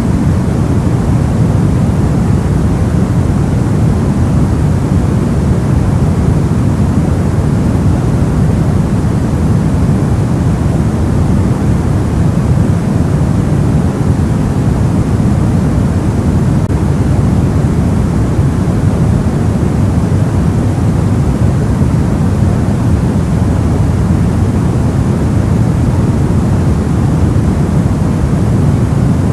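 Soft white noise for sleep: a steady, unchanging hush weighted toward the low end, so it sounds deep and rumbling rather than bright.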